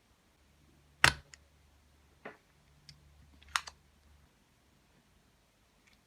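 Sharp plastic clicks and ticks from mechanical keyboard parts being handled: three distinct clicks, the loudest about a second in, with lighter ticks between.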